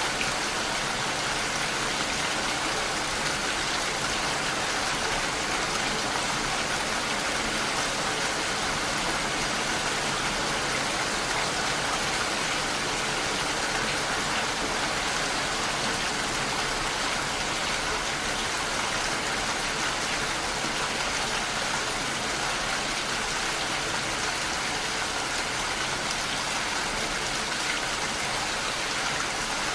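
Steady rainfall, an even hiss of rain falling on surfaces with no breaks.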